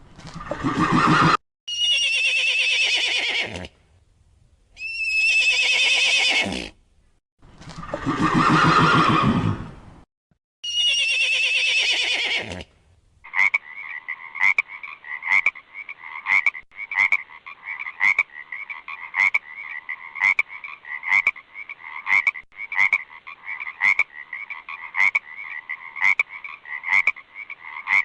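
A horse whinnying: five long, shaky calls. Then, about halfway through, a frog starts croaking in a steady rhythm of about one and a half croaks a second.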